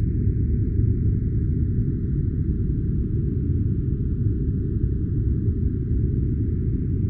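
Steady, unchanging deep rushing noise, a sleep-sound noise track, with almost nothing above a low cutoff apart from a faint higher hiss.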